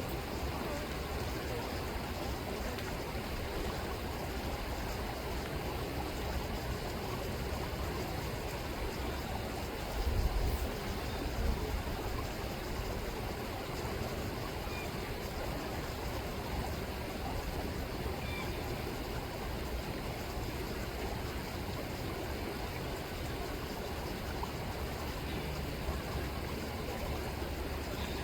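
River water rippling steadily, with a brief low rumble about ten seconds in.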